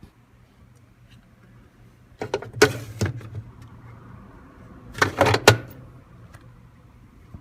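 Two bursts of clattering knocks and rattles about two and a half seconds apart, from a top-loading washing machine being handled, its plastic lid and parts knocking.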